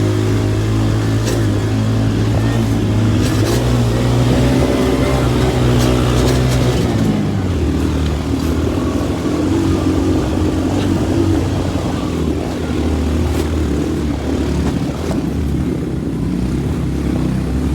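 Motorcycle taxi's engine running hard on a steep uphill track, heard from on the bike, its note dropping a little about seven seconds in, with scattered clatters and knocks.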